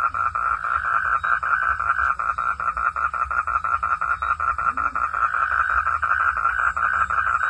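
Frogs calling in a continuous fast pulsed chorus, about six or seven even pulses a second, with no break.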